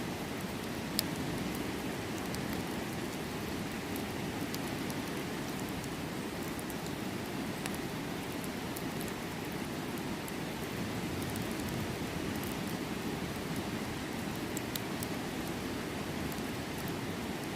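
Steady rushing of a river with firewood crackling in a campfire: scattered sharp pops and ticks, one louder pop about a second in.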